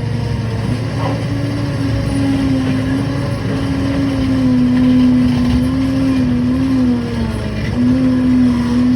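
Liebherr PR 746 crawler dozer running under working load: a steady diesel drone with a prominent whine that wavers slightly in pitch.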